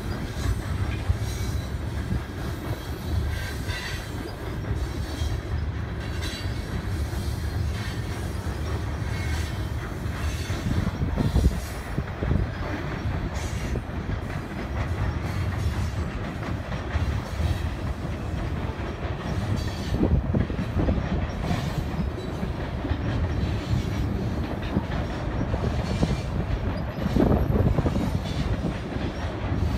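Long freight train of covered grain hopper cars rolling past, a continuous rumble of steel wheels on the rails.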